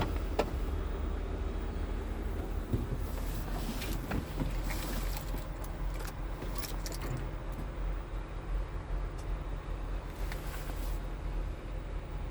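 Scania P truck's diesel engine idling with a steady low hum. A few sharp clicks and knocks come in the first few seconds.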